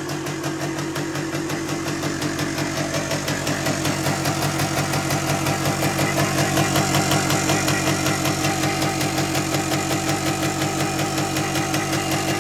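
1974 Yamaha DT360A's single-cylinder two-stroke engine idling steadily, a little louder for a few seconds in the middle. It is running well, freshly revived after sitting dead.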